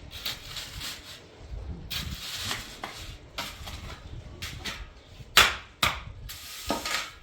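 A run of irregular knocks and scraping noises, with two sharp loud knocks about five and a half seconds in.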